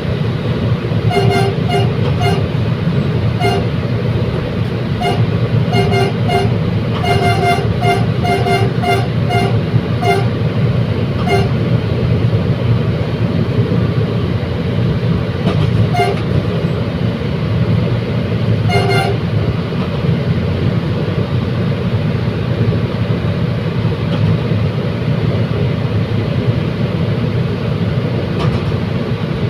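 Commuter train running with a steady low rumble, its horn sounding a quick series of short toots over the first ten seconds or so, then two more single toots further on.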